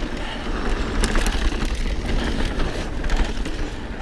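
Mountain bike rolling along a dirt trail: steady tyre and wind rumble on the helmet camera's microphone, with scattered clicks and rattles from the bike.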